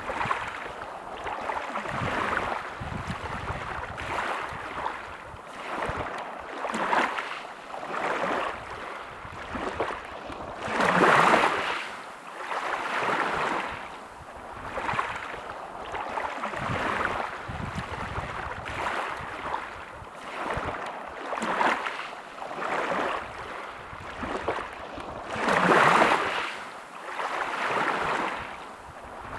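Small sea waves washing in and out, a swell every second or two, with two bigger waves about eleven and twenty-six seconds in.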